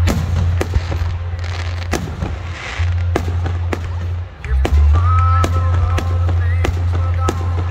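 Aerial fireworks shells bursting overhead in quick succession: a dense run of sharp bangs and crackles, a few a second.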